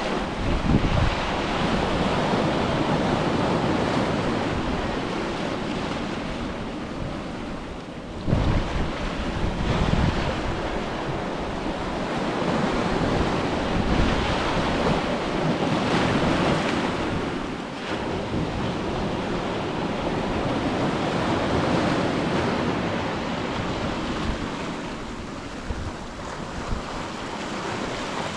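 Ocean surf breaking and washing up a beach, a steady rush that swells and ebbs as the waves come in, with wind buffeting the microphone.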